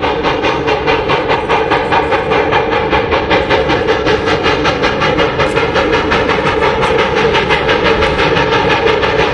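Steam train running, with a rapid, even beat of about five strokes a second over a steady hum.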